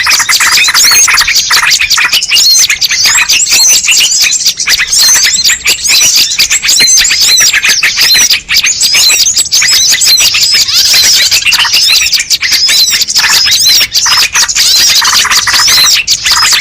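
Bird-lure recording: a dense, loud chorus of many small birds chirping and twittering at once, rapid high-pitched calls overlapping without a break.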